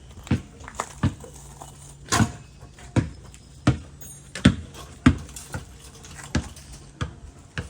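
Footsteps of a person walking, irregular steps about one to two a second, over a faint low steady hum.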